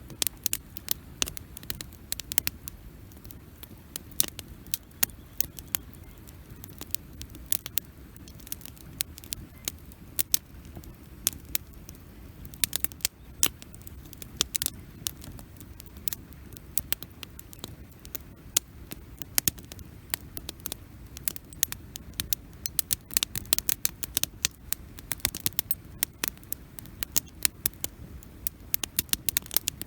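Wood campfire crackling, with many irregular sharp snaps and pops over a steady low rumble; the snaps come thicker in the second half.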